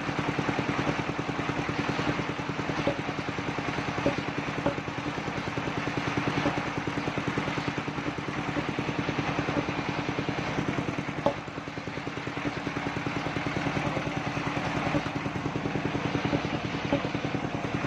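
Engine powering a mobile circular sawmill, running steadily with an even, rapid firing pulse, with a few sharp knocks from the rig, the loudest about eleven seconds in.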